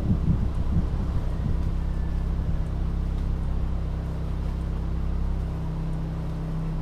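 A car engine running with a steady low hum, with uneven low rumbling for about the first two seconds.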